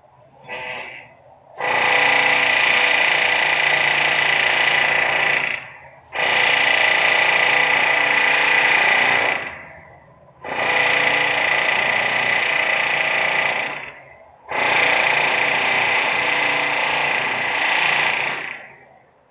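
Loud industrial machinery noise running in four bursts of about four seconds each, with short pauses between, a steady high tone running through each burst.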